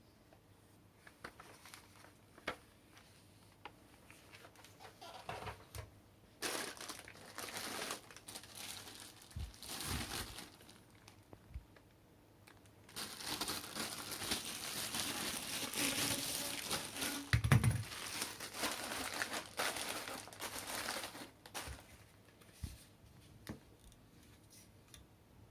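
Plastic packaging crinkling and rustling in irregular handling bursts, a longer steady stretch of it in the second half, with one dull thump partway through. This is the sound of vacuum parts being unwrapped.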